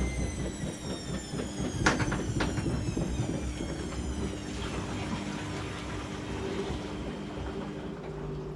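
Washing machine running, its motor whine slowly falling in pitch, with two sharp clicks about two seconds in.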